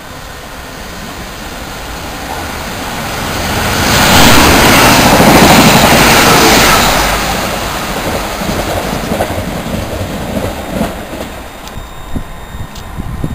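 A South West Trains passenger train running through the station at speed without stopping. Its rumble and wheel noise build over a few seconds, are loud for about three seconds, then fade as it goes away.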